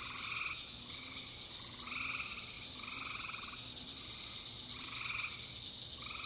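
Night chorus of frogs: short buzzy calls about once a second over a steady high drone of insects.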